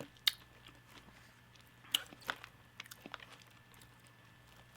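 A person biting and chewing food close to the microphone: a sharp click just after the start, two more around the middle, then a run of small ticks.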